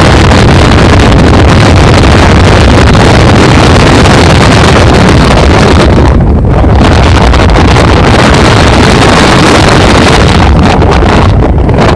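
Heavy wind buffeting on a phone microphone in a moving truck, a loud, overloaded rushing noise with a brief easing about six seconds in.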